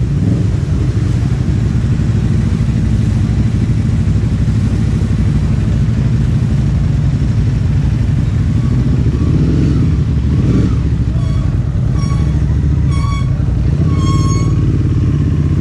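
Ducati Hypermotard SP's L-twin engine running at low revs while crawling through traffic. In the last few seconds there are several short horn beeps.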